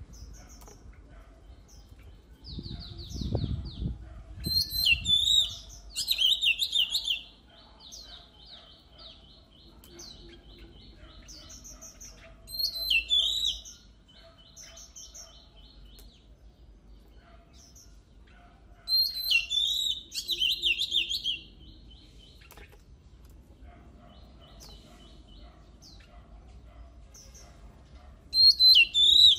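Oriental magpie-robin singing in loud bouts of rapid, repeated high notes, about four bouts with quieter twittering between them. A low rumble sounds about three seconds in.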